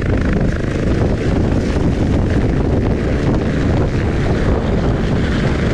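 Heavy wind buffeting on the microphone, a loud steady rumble, over the running motor of a boat under way.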